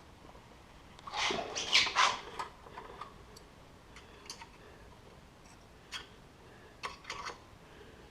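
Clatter and sharp knocks of parts and tools being handled: a burst of clinks about a second in, then scattered single clicks and a short second cluster near the end.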